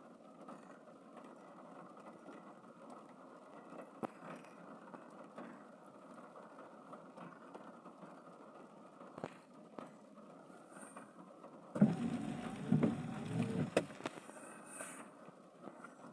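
Steady rushing noise of rain. About twelve seconds in, a louder pitched sound that wavers in pitch lasts for about two seconds.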